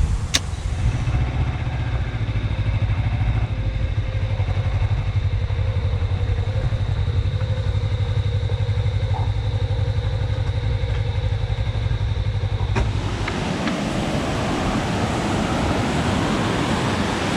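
Suzuki V-Strom DL250's parallel-twin engine running steadily while riding at an even speed. After about 13 seconds it cuts off abruptly and gives way to the even rush of a waterfall.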